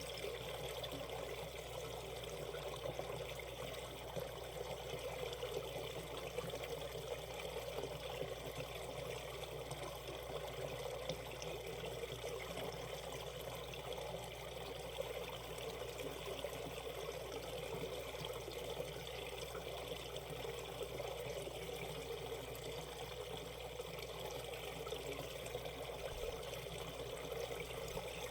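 Valley stream running through a shallow, a steady rush of flowing water that does not change.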